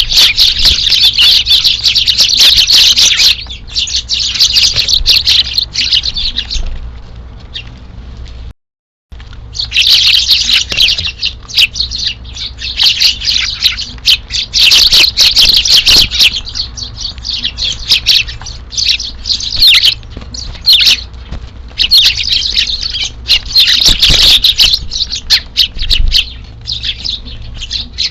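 A flock of Eurasian tree sparrows chirping and squabbling, many short calls overlapping continuously, with a brief complete break about nine seconds in.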